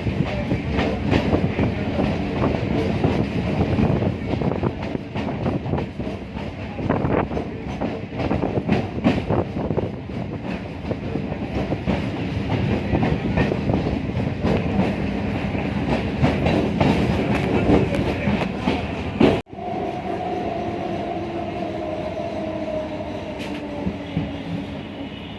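A passenger train running, its wheels clattering and the coach rattling over the track. About three-quarters of the way through, the sound cuts out abruptly and comes back steadier, with a faint whine that slowly falls in pitch.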